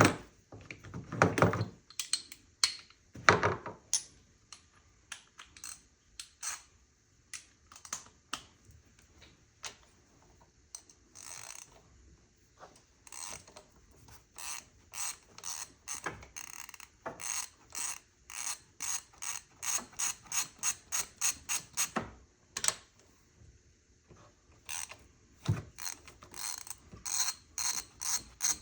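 Ratchet wrench with a 13 mm socket clicking in long runs as bolts are turned, with a few louder knocks in the first few seconds.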